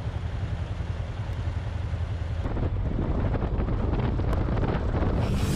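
A Royal Enfield Himalayan motorcycle on the move: its single-cylinder engine runs with a steady low rumble under heavy wind noise on the microphone. The wind noise gets fuller about two and a half seconds in.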